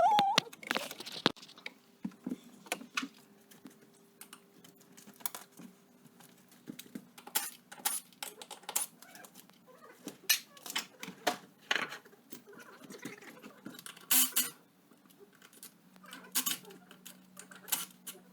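Irregular clicks, taps and light metallic clatter of hand tools and small parts being handled during an ATV teardown, with a louder clatter about fourteen seconds in.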